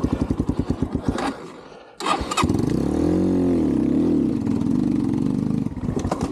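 Xpro Templar X 250cc dirt bike engine chugging unevenly and dying out about two seconds in, then firing back up, revved up and back down and running on. The stalling is from an idle set too low: the owner says the carb's idle screw needed opening because it kept bogging and stalling.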